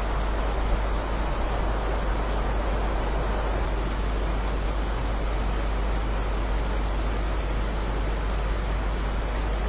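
Steady, even rainfall hiss with no separate drops standing out, over a constant low rumble.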